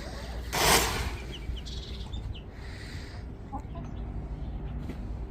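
Birds calling in a backyard, with a short loud rustle about half a second in and a few brief chirps a little later.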